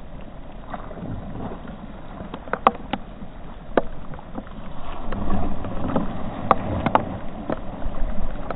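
Heavy rain falling on the water, with irregular sharp ticks of raindrops striking the camera and wind rumbling on the microphone, while a cast net is thrown out and drops onto the water.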